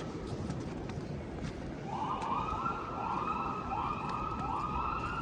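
Emergency vehicle siren in city streets: a tone that sweeps up and holds, starting about two seconds in and repeating about every three-quarters of a second, over steady street noise.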